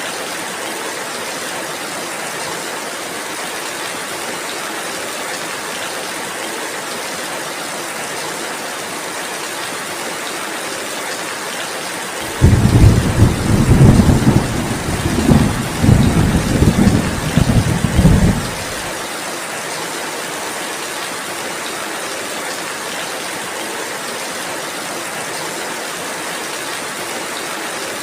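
Steady rain hissing evenly. About twelve seconds in, a loud rumble of thunder breaks in suddenly, rolls for about six seconds, then stops.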